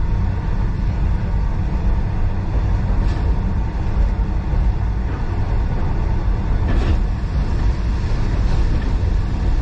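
Steady low rumble of a passenger train carriage running along the track, with a couple of faint clicks.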